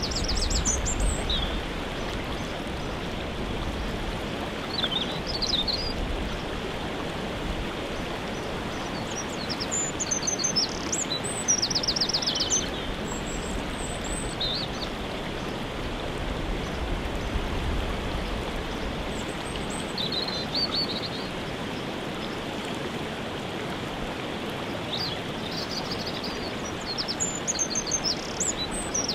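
Steady rushing of a waterfall, with songbirds singing short high phrases over it every few seconds.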